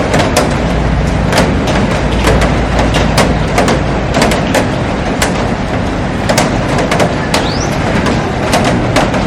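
Heavy rain falling on a glass roof and garden: a steady rush with frequent sharp taps of drops striking the glass.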